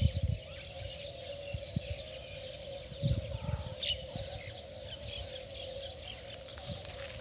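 Birds chirping in many short calls over a steady hum. There are low thumps at the very start and again about three seconds in.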